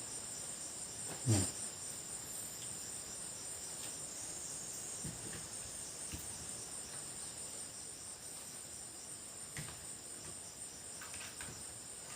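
Steady, high-pitched chirring of insects such as crickets. About a second in there is a short low sound that falls in pitch, and a few faint clicks follow later.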